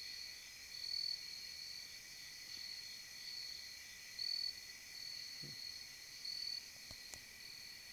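Steady chorus of crickets and other insects trilling, with the higher call swelling louder every second or so. A faint click comes near the end.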